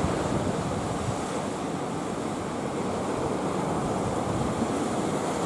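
Sea surf washing in a steady rush, with wind on the microphone; the swell is what a typhoon leaves behind the day after it passes.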